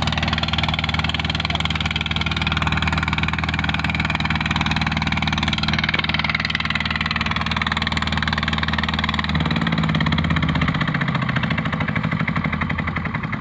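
Motorboat engine idling steadily, its note shifting about nine seconds in as the engine speed changes.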